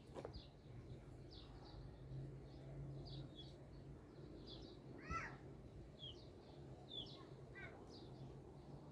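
Small birds chirping, with short high calls every half second or so and a louder call about five seconds in, over a faint low steady hum.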